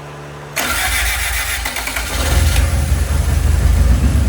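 Honda B-series four-cylinder engine, newly swapped into a Civic EG hatch, being started for the first time: the starter cranks from about half a second in, the engine fires about two seconds in and settles into a steady, smooth idle.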